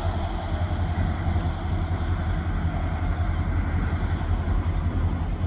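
A large engine running steadily at low revs, a continuous low rumble with a fine rapid pulse.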